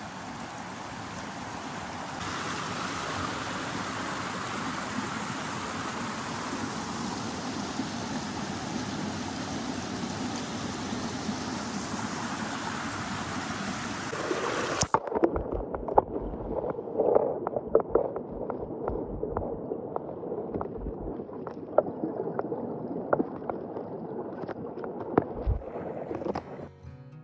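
A creek or small waterfall rushing steadily. About halfway through the sound changes suddenly to a duller, closer gurgling with many sharp splashes and pops.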